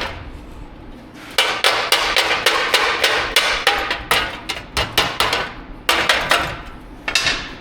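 Hammer striking warped sheet metal to straighten it: a blow, a short pause, then a fast run of metal-on-metal strikes, several a second, ending with one last blow near the end.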